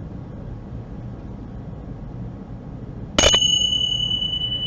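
Tingsha cymbals struck together once about three seconds in, ringing on with a clear, high, sustained tone.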